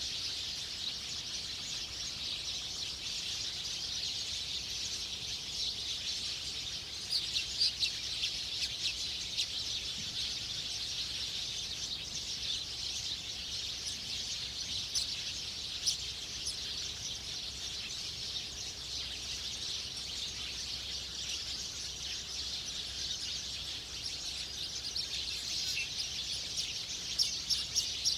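Wild birds chirping in short, sharp calls, clustered about seven seconds in, around fifteen seconds and near the end, over a steady high-pitched outdoor hiss.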